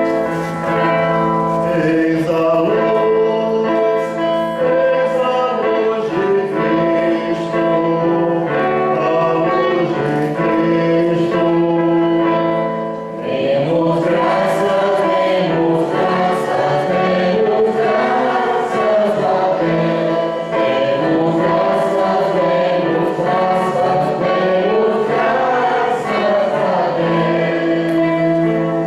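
Congregation or choir singing a hymn with instrumental accompaniment. There is a short pause about 13 seconds in, then the singing comes back fuller.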